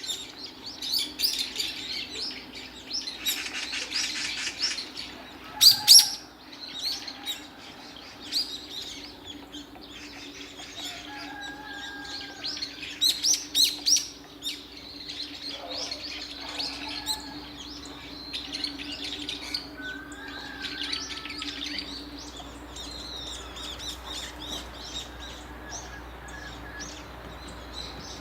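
Small birds chirping and twittering repeatedly, with a few sharp loud cracks, a pair about six seconds in and a quick cluster around thirteen seconds. A faint steady hum runs underneath.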